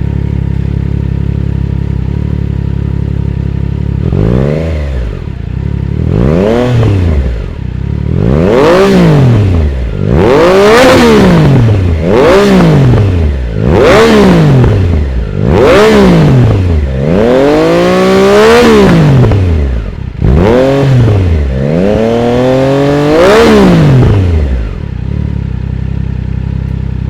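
Triumph Trident 660's three-cylinder engine through a Spark full exhaust system, idling steadily, then blipped about ten times, each rev rising and falling back, the biggest two near the end, before settling back to idle. The exhaust note is low and bassy.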